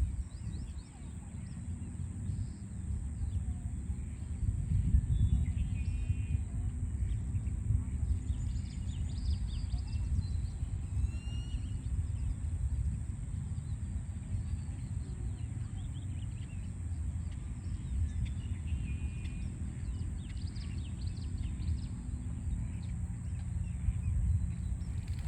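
Small songbirds chirping and warbling in short scattered phrases over a steady low rumble of distant city traffic.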